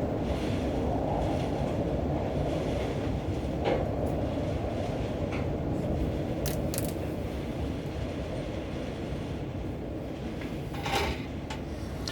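Wind rumbling steadily on the microphone and workshop, with a few light clicks from small parts being handled on the bench.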